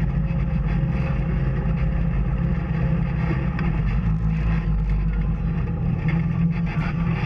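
Off-road vehicle engine running steadily under way on a trail, with rattling and road noise over it.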